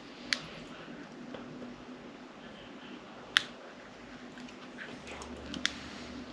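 Small electronic units being handled: three sharp plastic clicks a few seconds apart, over a faint steady hum.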